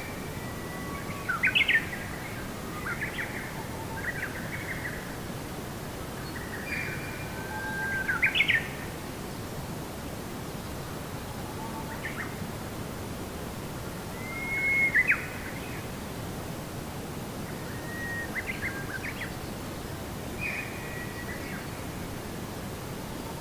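A songbird singing short whistled phrases every few seconds, some sliding up or down in pitch, over a steady low background hiss.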